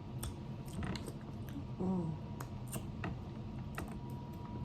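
Seafood shells being cracked and picked apart while eating: scattered sharp clicks and crackles.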